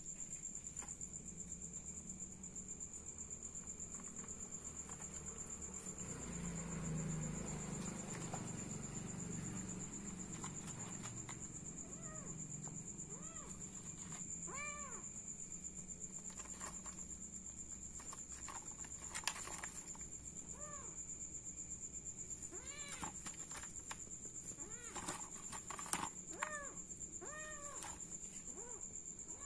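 A cat meowing again and again in short rising-and-falling calls, more often in the second half. A steady high-pitched whine runs underneath, and there is a low rumble about six seconds in.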